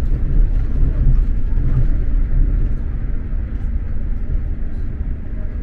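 Steady low rumble of an X2000 high-speed train running along the track, heard from inside the passenger car.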